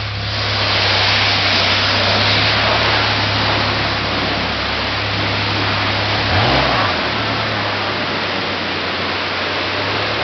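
Honda CR-V engine running steadily with a low exhaust hum, revved briefly once about six and a half seconds in, under a loud even hiss.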